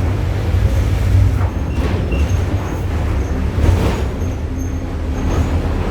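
A VW 17-230 OD bus's front-mounted diesel engine running under way, heard inside the bus as a steady deep rumble, with body rattles and a few brief knocks.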